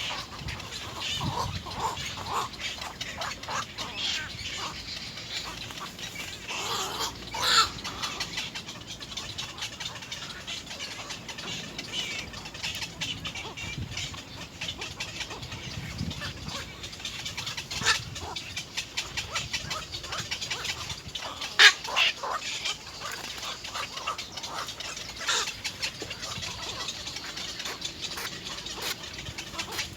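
Little egret chicks in the nest begging for food: a long run of short calls and clicks, with a few louder calls scattered through.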